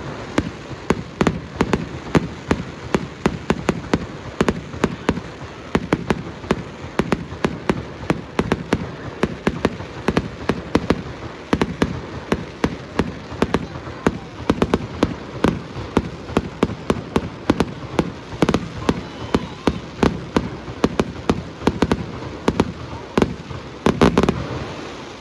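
Fireworks display: a rapid barrage of shells bursting, several sharp bangs a second over a continuous low rumble, dying away near the end.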